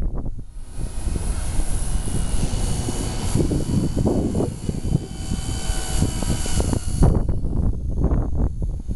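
V120D05 collective-pitch RC micro helicopter in flight: a steady high-pitched whine from its motor and rotor that fades about seven seconds in, over a low wind rumble on the microphone.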